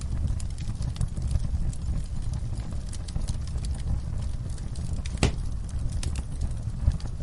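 Wood fire burning in a fireplace: a steady low rumble of flame with frequent small crackles and pops, and one sharper pop about five seconds in.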